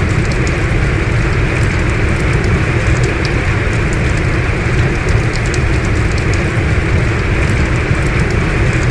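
Heavy rain falling steadily: an even, dense rush of water with scattered sharp drop taps through it.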